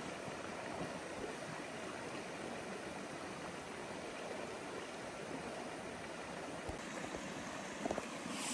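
A river running steadily, a continuous rush of water. There are two small knocks near the end.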